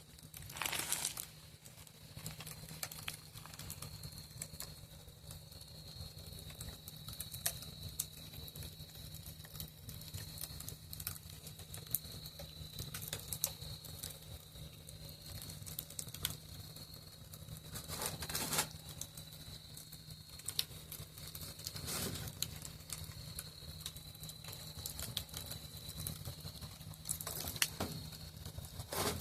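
Campfire crackling with scattered small pops and a few louder snaps, over a steady high trill of crickets.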